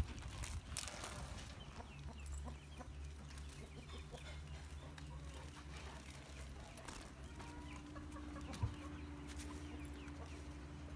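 Faint bird calls over a steady low hum, with a single knock near the end.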